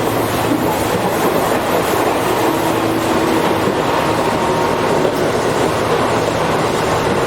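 Tobu 8000 series electric commuter train heard from inside the car while running between stations: a steady, loud rumble of wheels on rail mixed with motor and gear noise.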